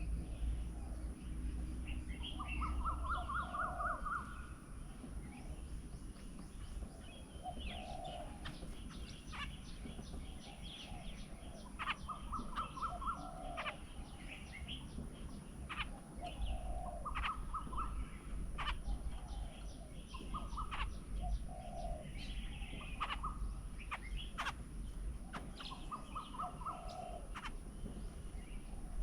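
Several birds calling: a low call repeated every few seconds, a fast run of about ten even notes that comes back several times, and scattered sharp chirps, over a steady low rumble.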